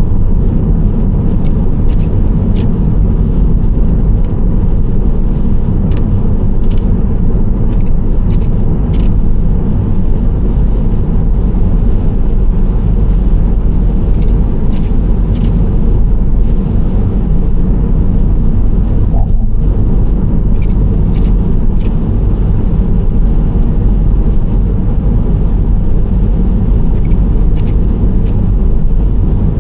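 Nissan Serena C25 minivan cruising, its steady road and engine rumble heavy in the low end. Scattered light ticks sound over it.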